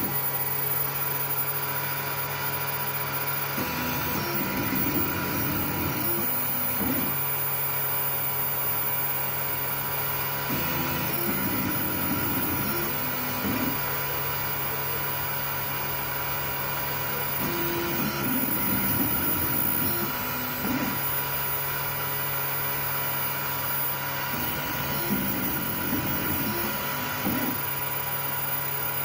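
FDM 3D printer at work: its stepper motors whine in stretches of shifting pitch every few seconds as the print head moves, over a steady hum.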